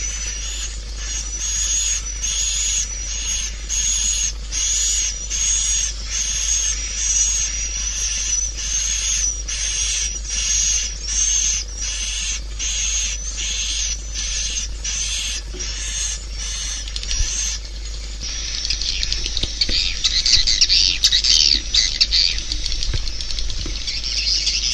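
Swiftlet calls of a swiftlet lure recording: high chirps repeating about twice a second, changing about two-thirds of the way through to a louder, dense twittering chatter, over a steady low hum.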